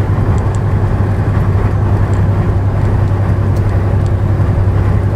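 Semi-truck driving at highway speed, heard from inside the cab: a steady low engine drone with road noise.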